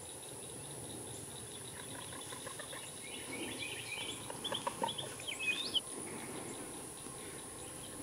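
Birds calling outdoors: a short flurry of chirps and quick gliding notes about three to six seconds in, over a steady background hiss and a faint, steady high-pitched whine.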